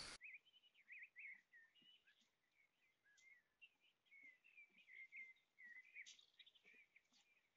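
Near silence with faint birdsong: quick, twittering chirps that rise and fall, continuing throughout.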